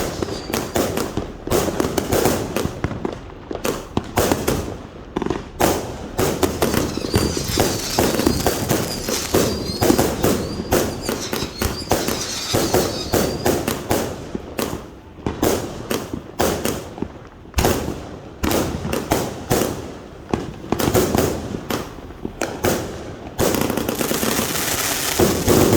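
A 100-shot firework cake firing in rapid succession: a dense, continuous string of launch thumps and bursting reports. A high wavering whistle rides over the shots for several seconds in the middle.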